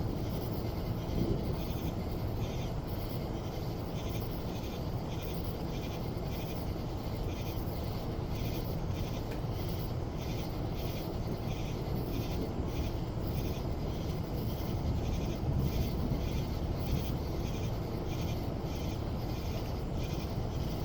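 Steady rain with a low, even rumble, and an animal calling in short, high, evenly spaced pulses about twice a second.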